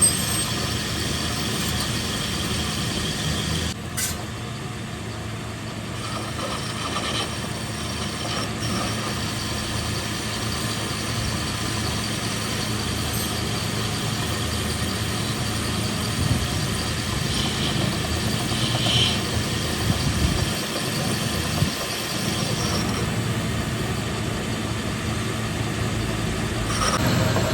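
Steady mechanical running noise with a low hum and a few sharp metallic clicks and knocks.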